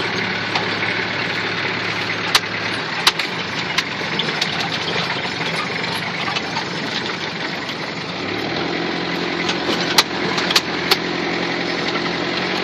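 Off-road vehicle's engine running steadily, heard from inside the cab on a rough dirt track, with a few sharp knocks and rattles, twice early and three times close together near the end.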